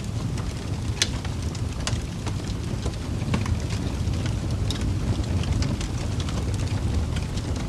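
Wood fire crackling, with irregular sharp pops and snaps over a low, steady rumble; one sharper pop about a second in.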